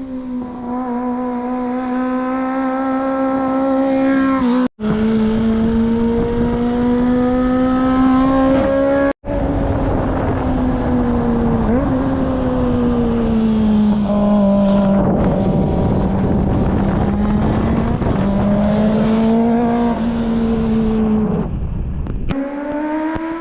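Kawasaki ZX-25R's 250 cc inline-four engine running at high, fairly steady revs as the motorcycle goes by, its pitch wavering and dipping a little. The sound cuts out abruptly twice in the first ten seconds.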